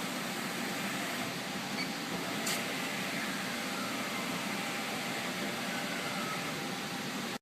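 1991 Haas VF-1 vertical machining center running with a steady, fan-like hum, fairly quiet for an older machine. There is a sharp click about two and a half seconds in, followed by a faint whine that falls in pitch.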